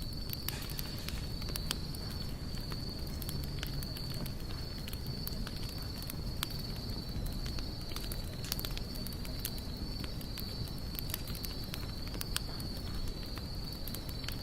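Campfire crackling, with irregular sharp snaps and pops over a low rumble of burning wood. A steady high-pitched insect trill runs underneath.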